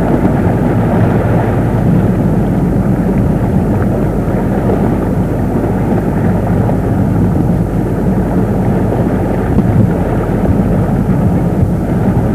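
A boat engine running steadily at speed, mixed with wind on the microphone.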